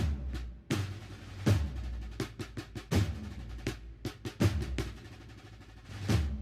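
Marching band percussion playing a slow processional cadence: snare drums with rolls and a bass drum striking about every one and a half seconds.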